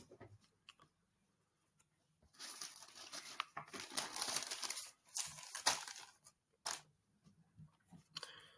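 Rustling, crinkling handling noise in spells, with a few scattered clicks.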